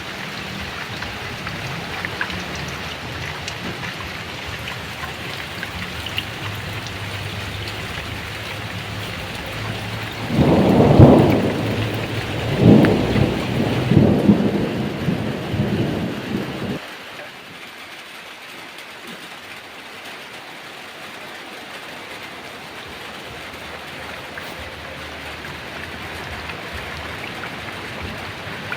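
Heavy rain falling steadily, with a loud roll of thunder about ten seconds in that rumbles for several seconds with two peaks. Then the sound drops abruptly to softer rain.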